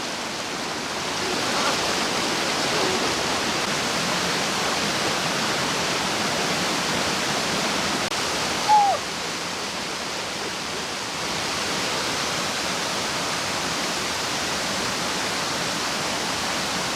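Jadipai waterfall pouring down: a steady rush of falling water. A single short high call that falls in pitch comes about nine seconds in.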